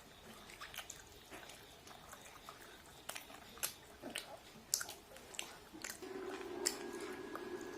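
Eating sounds of fried chicken and rice being chewed: scattered sharp mouth clicks and smacks. About six seconds in, a steady low hum starts and keeps going.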